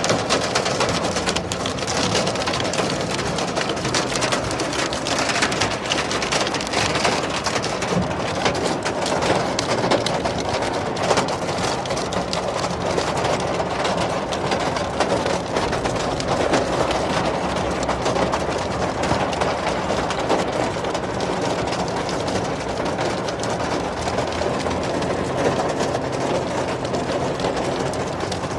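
Heavy rain pouring steadily, a dense hiss of drops with many sharp individual hits close by.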